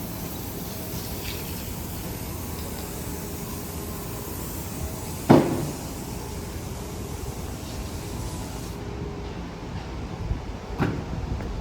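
Steady background noise of a city street with traffic. A loud, sharp knock, like a door banging, comes about five seconds in, and a smaller knock comes near the end.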